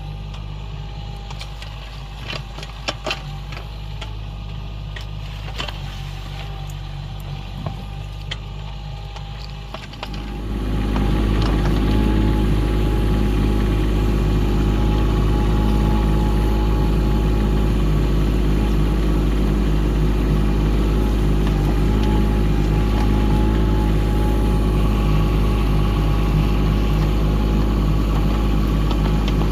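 Mini excavator engine running at low revs with a few sharp knocks. About ten seconds in it revs up and then runs steadily at high revs, as it does under digging load.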